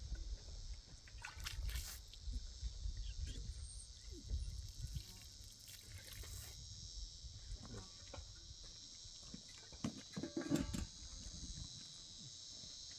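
Insects, crickets by their sound, chirring steadily and high-pitched outdoors, with scattered light clicks and knocks over a low rumble.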